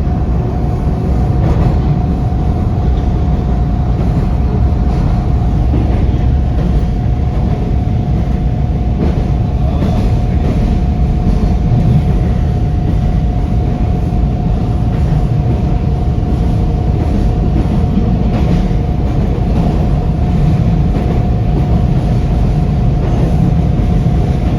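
Toronto TTC Line 2 subway train running steadily, heard from inside the car: a continuous low rumble of wheels on rail with a steady whine held at one pitch and faint scattered clicks.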